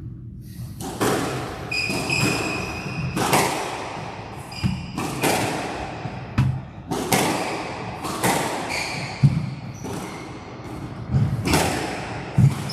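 Squash rally: the ball is struck by racquets and smacks off the walls in sharp thuds about every one to two seconds, with short high squeaks in between, echoing in the court.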